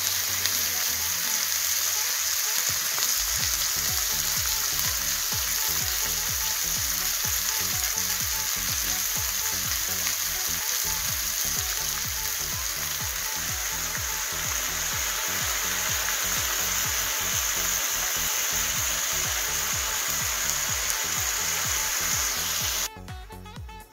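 Chicken pieces sizzling steadily as they fry in hot oil in a frying pan; the sizzling cuts off suddenly near the end.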